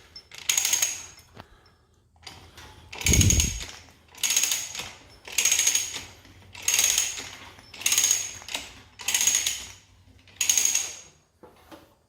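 A ratchet mechanism worked in repeated strokes: about seven bursts of clicking, roughly one a second, starting about three seconds in. A dull thump comes with the first stroke.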